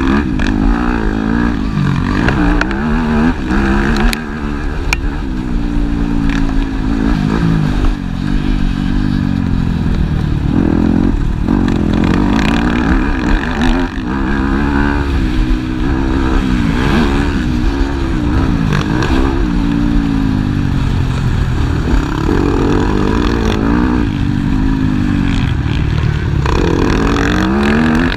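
Several motocross bike engines racing, each revving up and dropping back again and again as the riders work the throttle and gears, with the pitches overlapping.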